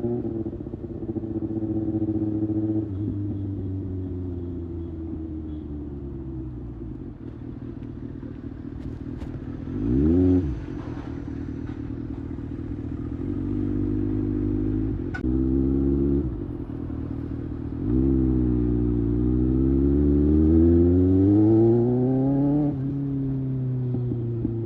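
Kawasaki ZX-6R's inline-four engine, heard from onboard on the highway, its pitch easing down and climbing again with the throttle. About ten seconds in there is a quick, sharp rev that rises and falls. Near the end the engine pulls up through the revs for about four seconds, then drops suddenly at a gear change.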